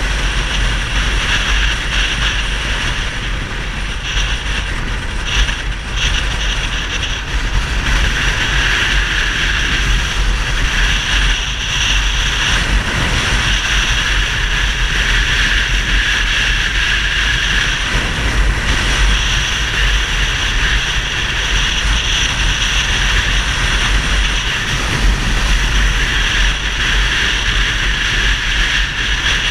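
Yamaha XTZ 250 Ténéré's single-cylinder engine running through a Roncar 2Way aftermarket exhaust. It makes a loud, steady drone with no sharp revs.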